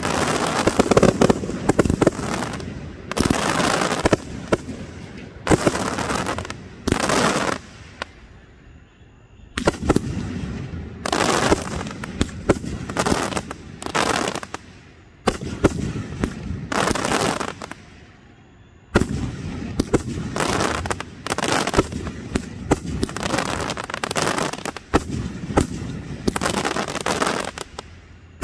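Fireworks display: bursts and crackling in quick succession, with brief lulls about eight seconds in and again around eighteen seconds.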